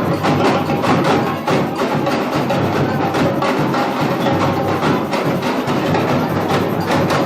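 Samba bateria (a university drum corps) playing a dense, steady samba rhythm on drums and percussion, with a deep drum underneath and sharp, high, clicking strokes on top.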